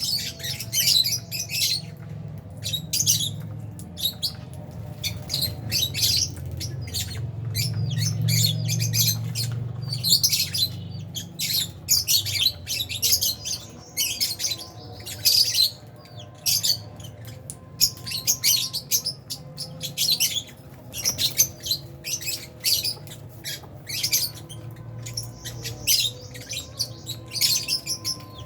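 A colony of lovebirds, albino and Fisher's, chattering without pause: rapid, shrill chirps and squawks overlapping one another, over a low steady hum.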